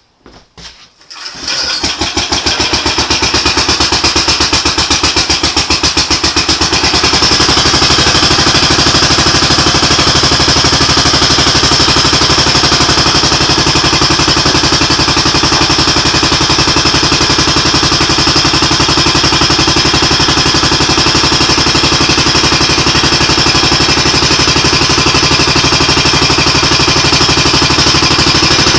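A homemade tractor's 16 hp side-shaft engine, taken off a grain auger, being started: a few brief sounds, then it catches about a second and a half in and runs, growing louder over the next few seconds before holding steady.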